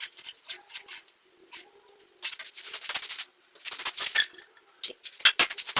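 Household items being handled and put away: irregular clicks, knocks and rustling, with longer rustles in the middle and sharper knocks near the end, over a faint steady hum.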